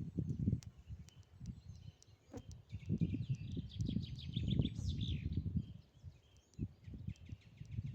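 Small birds singing outdoors, with a fast run of high repeated notes in the middle, over a louder low, uneven rumbling noise.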